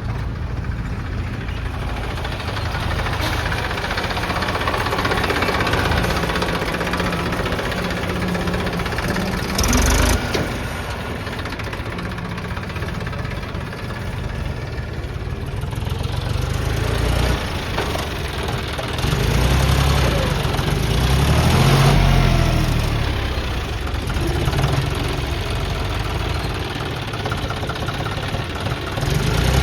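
Heavy diesel engines of earth-moving machinery running, revving up and down in the second half, with a short loud bang about ten seconds in.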